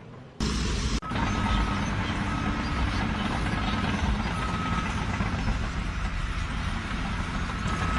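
An engine running steadily, starting about a second in.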